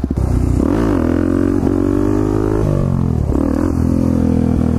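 Single-cylinder motorcycle engine revving as the bike accelerates. The pitch climbs and holds for about two seconds, drops briefly around three seconds in as the throttle eases, then rises again.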